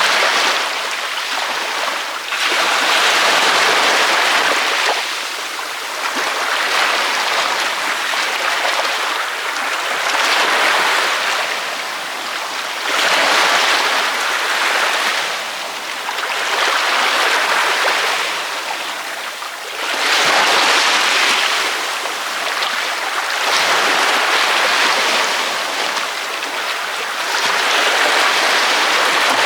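Ocean waves breaking on a beach: a steady wash of surf that swells and eases, one wave about every three to four seconds.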